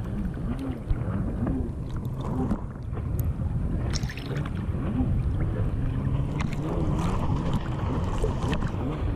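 A riderless jet ski's engine running, with water churning and sloshing and wind buffeting the microphone, as a low, dense rumble.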